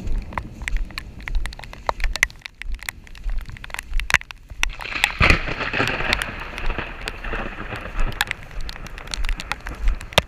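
Rain falling, with many sharp drops tapping close to the microphone. A louder rush of noise swells about five seconds in and fades over the next couple of seconds.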